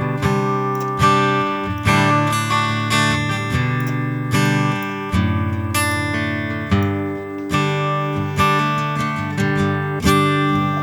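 Looped acoustic guitar part from a Yamaha's piezo pickup, played back through a Line 6 HX Stomp XL set up to test acoustic guitar impulse responses. Chords are struck roughly once a second, the chord changing every few strikes.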